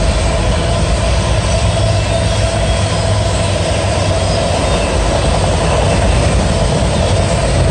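Autorack cars of a fast CSX freight train rolling past at speed: a loud, steady noise of steel wheels on rail with a steady ringing tone above it.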